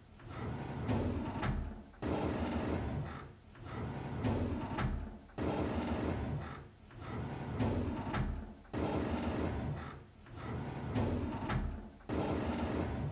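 A drawer sliding open, again and again. Each slide starts suddenly, runs for a second or two with a rumbling scrape, then fades out, repeating about every three and a half seconds.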